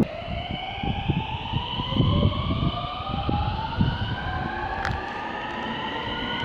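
Electric train's inverter motor whine, several tones rising slowly together as the train accelerates, over irregular low knocks from the running gear.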